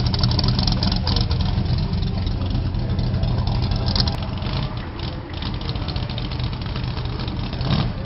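Loud car engine idling with a rapid exhaust pulse, easing a little quieter about halfway through.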